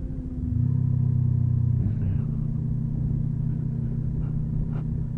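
Motorcycle engine running steadily under way, picking up about half a second in and settling to a slightly lower, even note around two seconds in.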